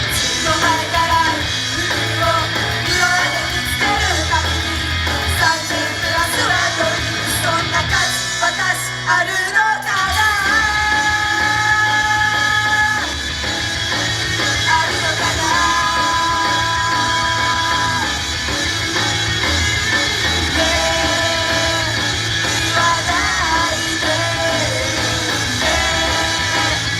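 Live rock-style idol pop song played loud through a club PA, with singing over a band backing. The bass and drums drop out briefly about eight seconds in, then the full band comes back in with long held notes.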